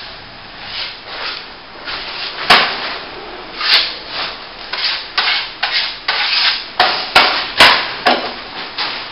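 Steel plastering trowel scraping and swishing as it spreads and shapes top-coat plaster, one stroke every second or so at first and faster later, with a few sharp clicks among the strokes.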